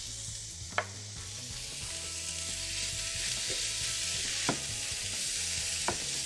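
Ground chicken with diced bell peppers, onion and garlic sizzling in a frying pan as it is stirred with a wooden spoon. Three sharp knocks of the spoon against the pan: about a second in, past four seconds, and near the end.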